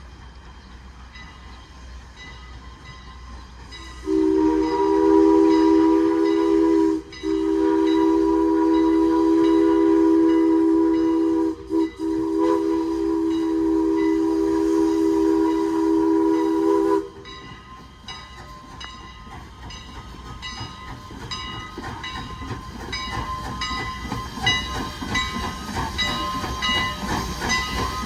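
A steam locomotive's chime whistle sounds the grade-crossing signal: long, long, short, long. Then the locomotive draws closer, its even exhaust beats and steam hiss growing louder.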